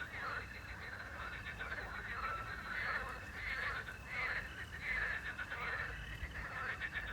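A chorus of frogs croaking in repeated rattling trills, bursts coming every second or so, with a steady chirring of crickets underneath.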